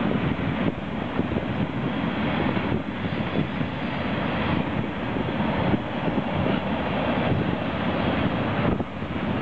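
Freight cars rolling past: a steady rumble and rattle of steel wheels on the rails, with a brief dip in level near the end.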